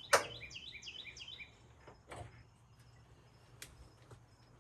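A sharp knock just after the start and a softer one about two seconds in, with a few faint clicks later. A bird sings a quick run of falling chirps during the first second and a half.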